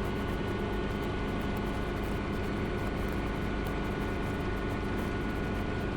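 Schweizer 300 (Hughes 269) helicopter in cruise flight, heard in the cockpit: the piston engine and rotors make a steady, unchanging drone, with a thin steady tone above it.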